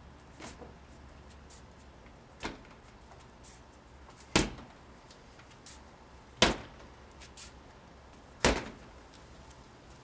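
Wooden jo staff landing strikes: five sharp knocks about two seconds apart, the last three much louder, with a few faint clicks between.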